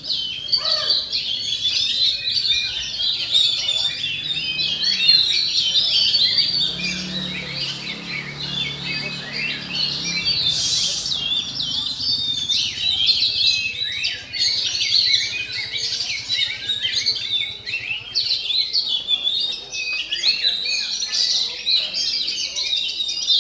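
Oriental magpie-robin (kacer) singing: a fast, unbroken run of varied chirps and whistles.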